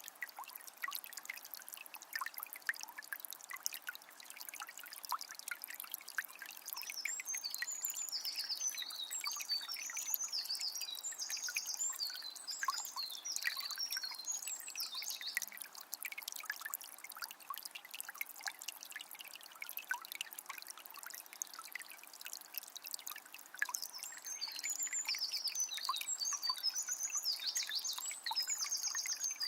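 Water of a small spring trickling and splashing steadily. A songbird sings fast, high chirping phrases over it twice: for several seconds in the first half, and again near the end.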